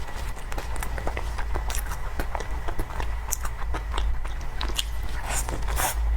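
Close-miked mouth sounds of someone eating soft cake: biting and chewing, with many small wet clicks and smacks at an uneven pace, over a steady low hum.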